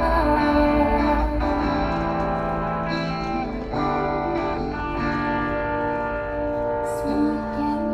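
Live band playing an instrumental passage of a pop song, with guitar to the fore.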